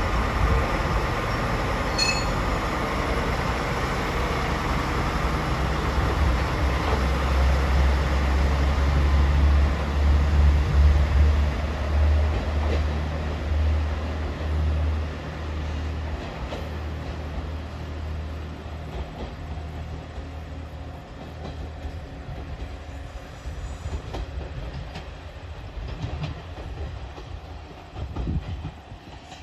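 Diesel railcar pulling away from a station: its engine's low drone builds to its loudest about ten seconds in, then fades as it leaves, with wheels clattering over the rail joints.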